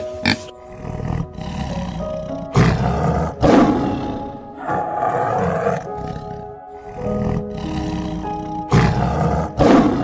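Tiger roaring: a run of long, rough roars begins a few seconds in, and two more come near the end, over steady background music.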